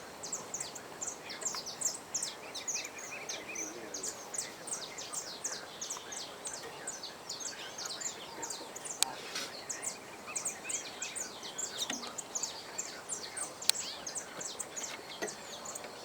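Many small birds chirping at once: a dense, continuous chatter of quick, high chirps. Two sharp clicks stand out, one about halfway through and one near the end.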